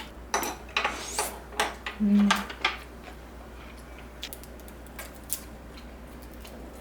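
Metal spoons and chopsticks clinking against a pot and bowls while ramen is eaten. There is a quick run of sharp clinks in the first two and a half seconds, then a few scattered light taps.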